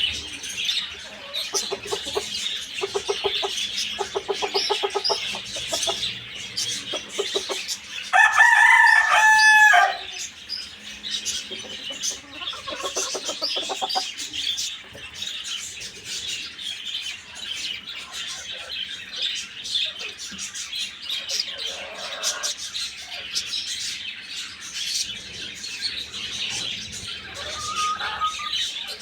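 Chickens clucking on and off, with a rooster crowing once, loud and held for about two seconds, falling in pitch at the end, about eight seconds in. A steady background of high chirping runs underneath.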